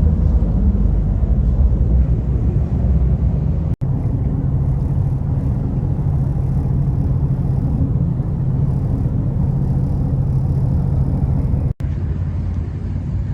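A car engine running with a steady low rumble. The sound cuts out for an instant twice.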